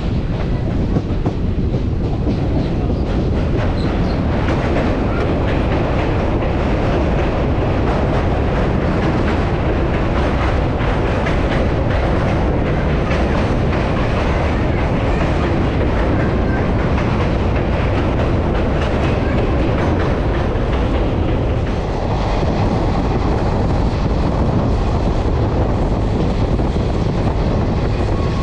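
ICF passenger coach of an express train running along the track: a steady rumble of wheels on rail with clickety-clack over the rail joints.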